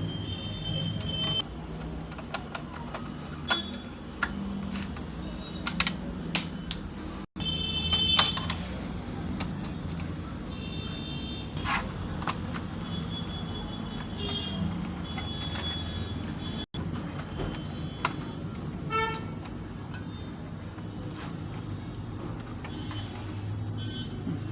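Street traffic noise: a steady low rumble with repeated short vehicle horn toots and scattered sharp clicks and taps.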